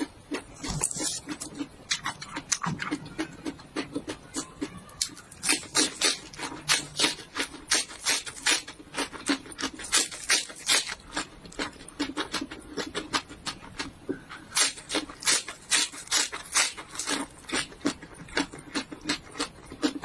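Close-miked chewing of raw bitter gourd and garlic leaves: a quick run of crisp crunches, two or three a second, with wet mouth noises.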